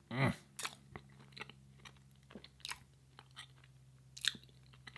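Close-up chewing of a soft chocolate cupcake, with scattered wet mouth clicks and smacks. There is a short voiced hum right at the start and a faint steady low hum underneath.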